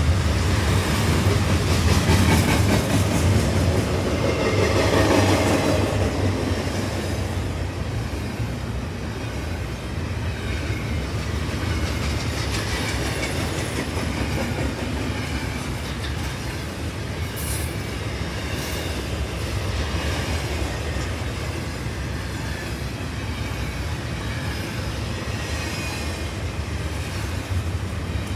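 Double-stack container train cars rolling past: a steady rumble of steel wheels on rail with the clickety-clack of the cars, loudest over the first few seconds, then steadier. A short high-pitched wheel squeal a little past halfway.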